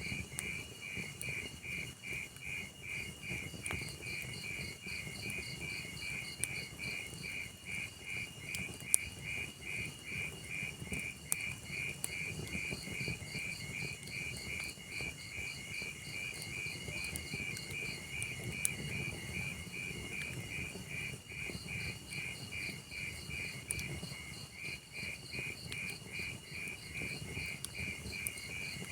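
A cricket chirping steadily, about three chirps a second, over the low hiss of a log fire, with a few sharp crackling pops from the burning logs.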